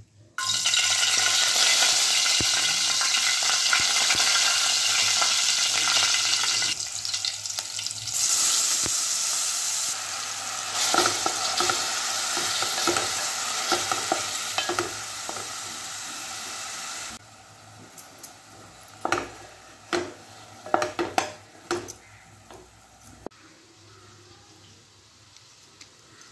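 Chopped tomatoes sizzling in hot oil in a steel pot, the sizzle starting suddenly about half a second in, while a spoon stirs and scrapes against the pot. Later the sizzle dies down and the spoon's scrapes and knocks on the pot stand out.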